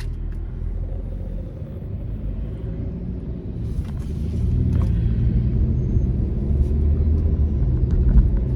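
Car cabin rumble from the engine and road while driving. It gets louder about four seconds in.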